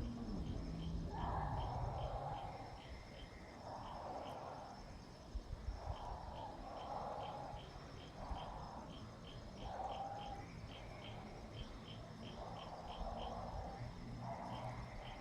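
Insects chirping in short, even pulses, about two or three a second. Under them a lower, rough sound repeats roughly every second.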